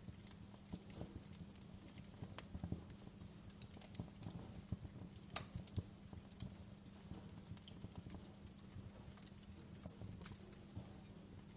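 Wood fire in a fireplace crackling, with irregular small pops and snaps and one sharper pop about five and a half seconds in, over a faint steady low hum.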